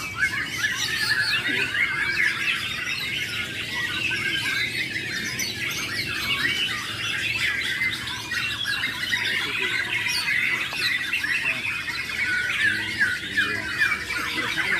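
Many caged songbirds singing at once in a dense, unbroken chorus of overlapping chirps, whistles and trills, as at a birdsong competition.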